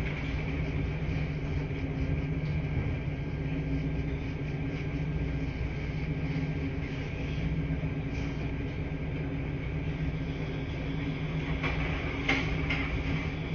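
Laundry-room ambience: washing machines running with a steady low hum, a few light knocks near the end.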